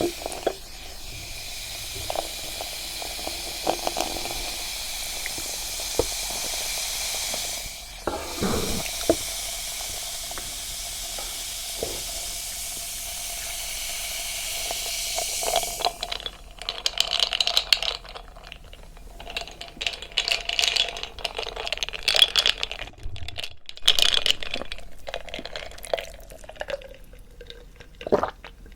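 A steady hiss for the first half, then close-miked eating of crispy mocha bread: irregular crisp crunches and chewing for the second half.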